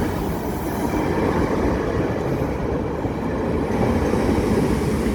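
Train passing close by over a level crossing: a steady, loud rush of wheel and rail noise.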